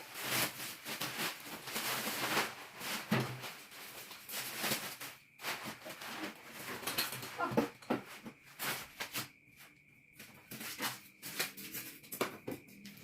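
Irregular rustling, crackling and scraping of packaging being handled and pulled off, with a faint steady high tone from about five seconds in.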